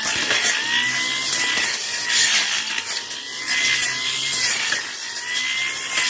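Tanzu petrol brush cutter running at high revs, its engine pitch wavering slightly as it cuts through grass and scrub, with a rough hiss from the cutting head.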